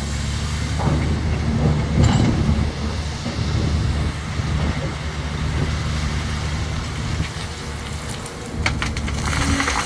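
Heavy diesel construction machinery running steadily, with a few sharp clanks and knocks about one and two seconds in and again near the end.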